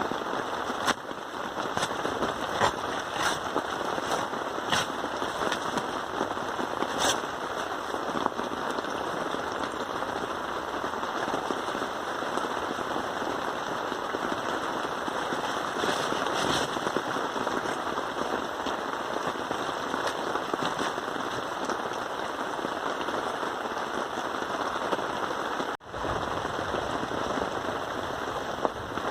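Steady rain falling, with scattered sharp pops standing out over it, several in the first few seconds and a couple more around the middle. The sound drops out for an instant near the end.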